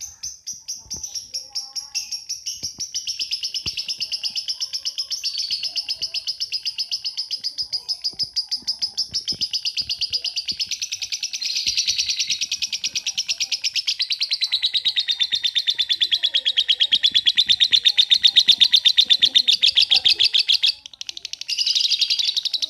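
Lovebird giving a long 'ngekek' chatter: a fast, even, unbroken string of sharp high chirps, the rhythmic 'steam train' style (kereta uap). It runs about twenty seconds, breaks off briefly near the end, then starts again.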